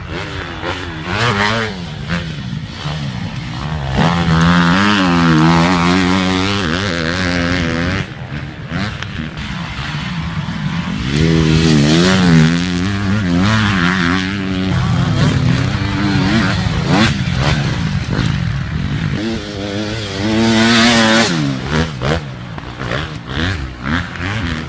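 Motocross dirt bike engines revving hard, their pitch climbing and dropping over and over with throttle and gear changes. The sound changes abruptly every few seconds as one clip cuts to the next.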